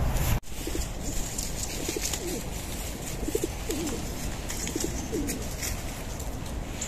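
A bird calling in short, low notes repeated several times over steady outdoor background noise. A louder rumble of noise cuts off abruptly about half a second in.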